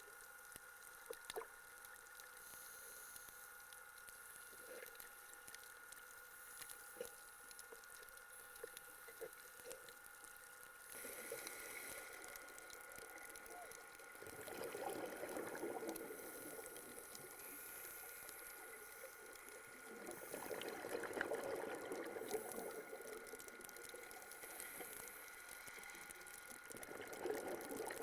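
Underwater recording of bubbles gurgling from a scuba diver's regulator exhaust, in surges of a few seconds each. One comes about halfway through, another some six seconds later and a third near the end. Before them there are only faint scattered clicks over a steady faint tone.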